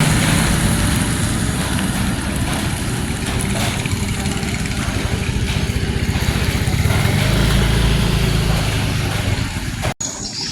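A motor vehicle engine running close by, a low pulsing drone that grows louder toward the end, with a steady hiss over it. The sound cuts off abruptly about ten seconds in.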